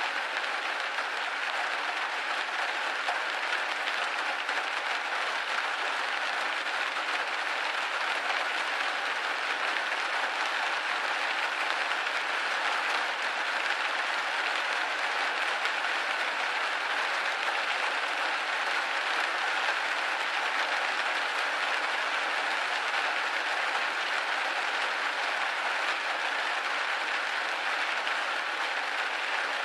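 Steady rain pattering on window glass, a dense even hiss of drops without gusts or breaks.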